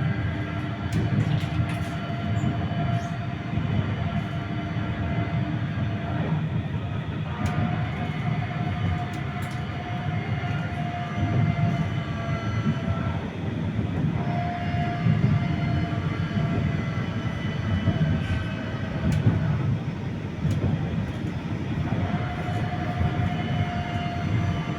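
A 71-931M Vityaz-M low-floor tram running along the track: a steady rumble of wheels on rails, with the whine of its IGBT traction drive and ATD-10U1 motors as level tones that come and go, and occasional light clicks.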